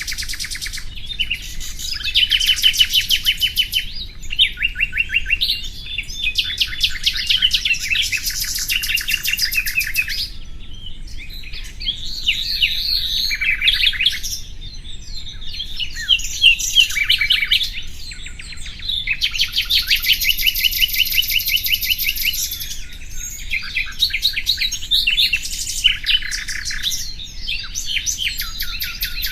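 Common nightingale singing: a string of varied phrases of fast, rapidly repeated high notes and trills, each phrase lasting one to a few seconds with short pauses between.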